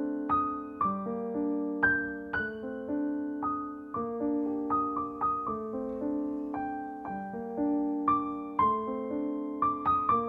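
Solo piano music: a slow, gentle melody of single notes over sustained chords, each note struck and fading away.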